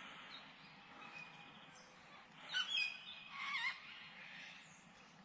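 A bird calling: two short bursts of quick, bending chirps about halfway through, over faint outdoor ambience.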